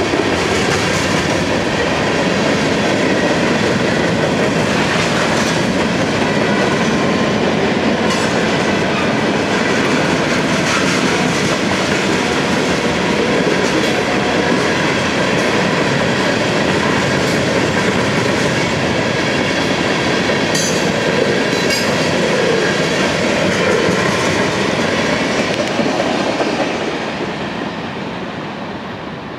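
Freight train of covered hoppers and tank cars rolling past at a grade crossing: a steady rolling rumble of steel wheels on rail, with a few sharp clacks. It fades over the last few seconds as the end of the train goes by.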